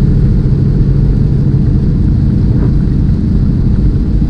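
Steady low rumble of a tractor-trailer's diesel engine and road noise, heard inside the cab while driving.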